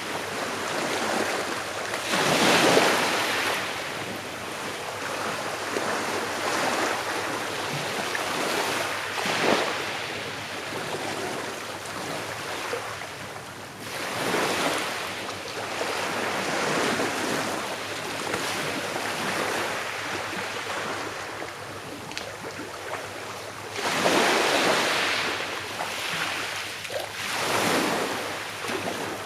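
Small sea waves lapping and breaking on a shore, a steady wash that swells every few seconds, loudest about two seconds in and again near the end.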